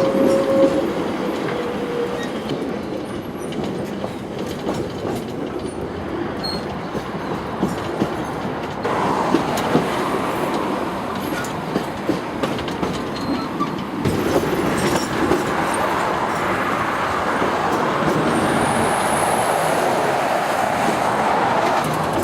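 Railway carriage running along the track, heard from on board: a steady rumble with the wheels clicking over the rail joints. A brief high-pitched squeal rises and falls near the end.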